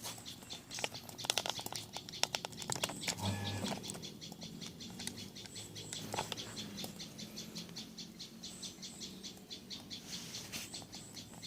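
A bird chirping in a quick, even series of short high notes, about three a second. A few clicks and a dull knock come in the first few seconds.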